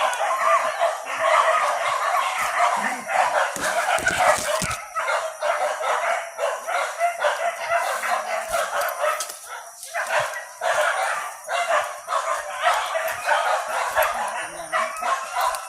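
A pack of hunting dogs barking and yelping in a continuous overlapping chorus.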